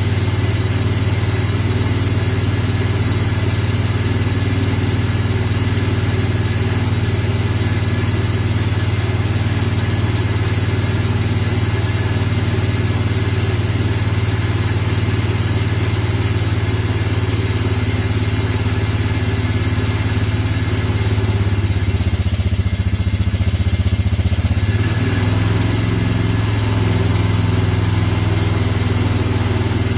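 Vehicle engine idling steadily after a cold start on a chilly morning. The idle note shifts and grows slightly louder for a few seconds about three-quarters of the way through, then settles again.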